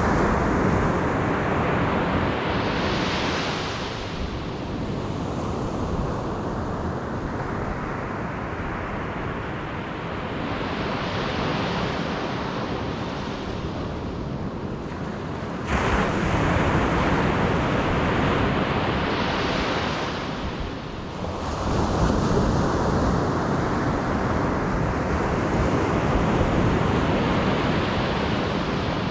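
Ocean surf breaking on a beach, waves crashing and washing up about every eight seconds, one surging in suddenly past the middle. A low wind rumble on the microphone runs under it.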